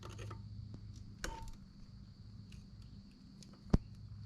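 Scattered light clicks and taps of hand work on metal engine parts, one with a brief metallic ring, and a single sharp click near the end, over a steady low hum.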